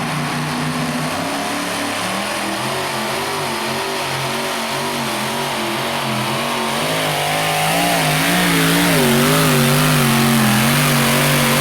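Engine of a modified two-wheel-drive pulling vehicle running hard under load on a pull, its pitch wavering, then climbing and getting louder about seven seconds in and held high near the end.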